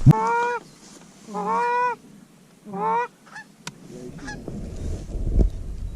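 Canada goose honks: three drawn-out calls about a second apart, the first opening with a sharp click, followed by a few faint clicks.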